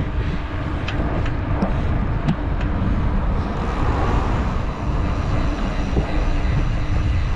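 Wind rumbling on the microphone with road and traffic noise while riding, a steady rushing noise with no breaks.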